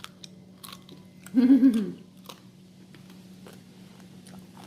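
Chewing and crunching on fruit in a hard sugar candy shell (tanghulu), heard as scattered sharp crunchy clicks. About a second in comes a short, loud vocal "mm"-like sound that rises then falls. A steady low hum runs underneath.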